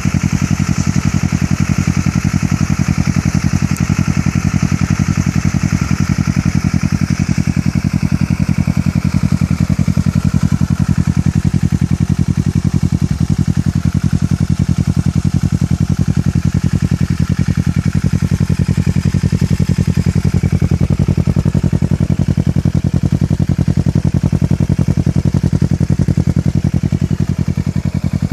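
Kawasaki Ninja 650 parallel-twin engine idling steadily through a Two Brothers full system aluminium exhaust, a loud, even low exhaust note with no revving.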